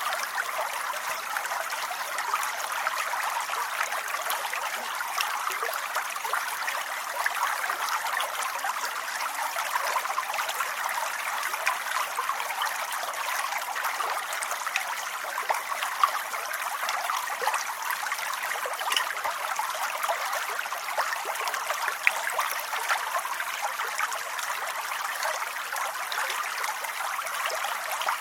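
Steady rain falling: a continuous hiss made of many small drop impacts, unchanging throughout.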